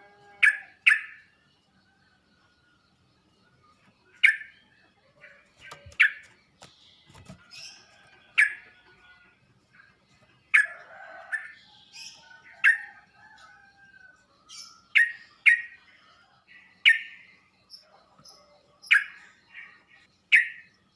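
Yellow-vented bulbul (trucuk) calling: a string of short, sharp, bright notes, one every second or two, with softer chirps and warbling between them.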